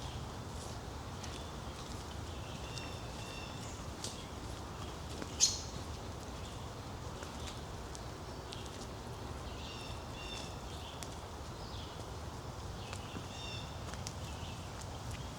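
Small birds calling with short high chirps, repeated every second or two, over a steady low outdoor background. One sharp click about five and a half seconds in stands out as the loudest sound.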